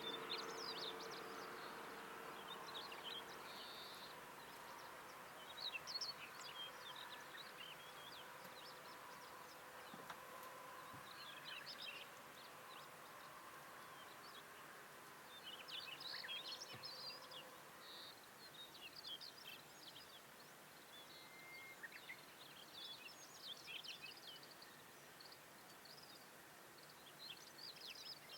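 Faint small-bird twittering: scattered bursts of short high chirps every few seconds over a soft outdoor hiss.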